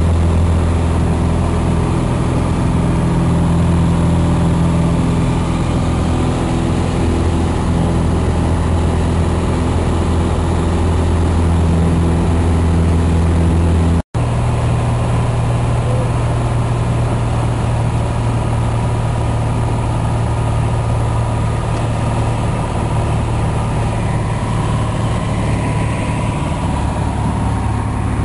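Piper Cherokee Six's six-cylinder Lycoming engine and propeller droning steadily. About halfway through the drone breaks off abruptly, then carries on at a slightly higher pitch.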